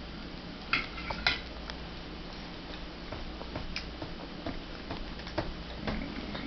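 A toddler eating corn on the cob: scattered small clicks and smacks from biting and chewing, the sharpest two about a second in, over a steady low hum.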